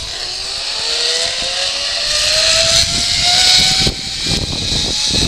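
Zipline trolley running down the cable as a rider launches: a whine that climbs steadily in pitch as it picks up speed, over a hissing rush that grows louder.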